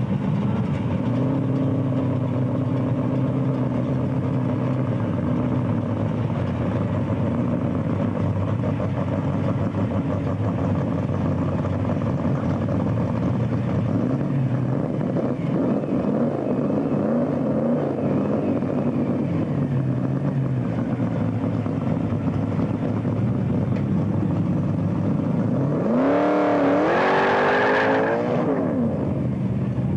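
Chevrolet Camaro drag car's engine running at a steady idle, then revved hard about four seconds before the end: the pitch climbs quickly, wavers and drops back down.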